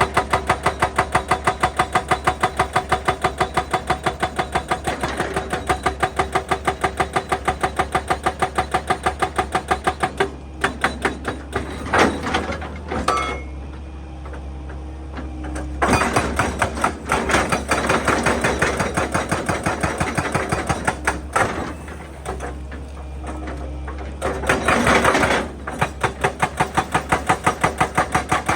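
Excavator-mounted hydraulic breaker hammering rock in a rapid, even rhythm of blows. The hammering stops about ten seconds in, gives way to irregular knocks and noisier bursts, and starts again near the end.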